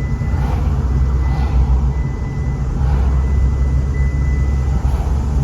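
Car driving, its steady low road and engine rumble heard from inside the cabin, with a faint thin high whine running through most of it.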